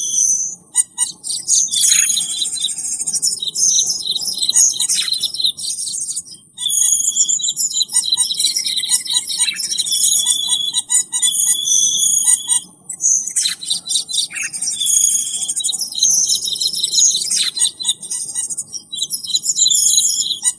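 Cucak keling bird song used as a lure call: fast, high chirps and clear whistles in short phrases, repeated over and over with brief gaps, with a few quick downward-sweeping notes.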